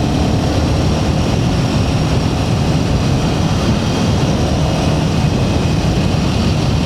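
Royal Enfield Himalayan 450's single-cylinder engine running steadily at riding speed over a dirt track, heard under heavy wind rush on the microphone.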